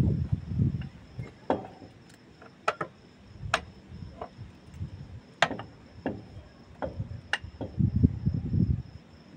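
Irregular metallic clinks and taps of hand tools and brake parts being handled during a disc pad change, a dozen or so sharp strikes with a brief ring, with low handling rumbles between them.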